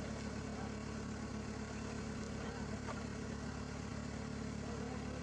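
An engine idling steadily with a low, even hum, with a faint click about three seconds in.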